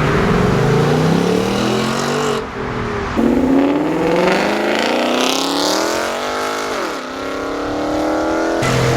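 A modified car accelerating hard away, its engine revving up through the gears: the pitch climbs, drops at an upshift about three seconds in, climbs again and drops at another shift about seven seconds in.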